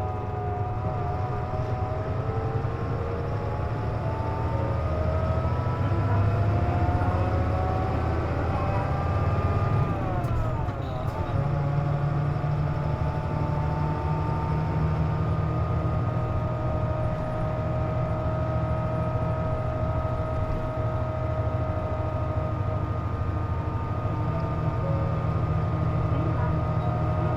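Interior of a Hino Rainbow KC-JP250NTN diesel route bus under way: engine drone with whining tones that climb as it accelerates, drop at a gear change about ten seconds in, then hold steady while cruising. The whine is the bus's unusual running noise, which the uploader puts down to the air conditioning being on.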